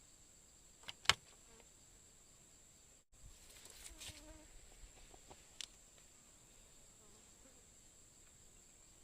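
Faint, steady high-pitched insect drone, with a sharp click about a second in and a fainter click a little past five seconds.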